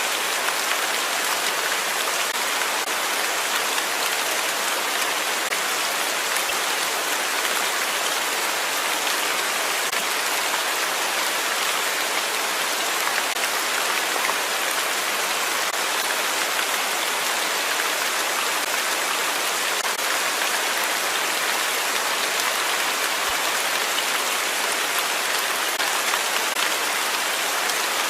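Steady rain falling on a surface, an even hiss of drops without thunder or pauses.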